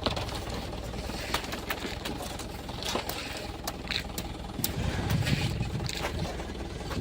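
An engine running steadily at low revs, with scattered light clicks and knocks over it; the rumble swells about five seconds in.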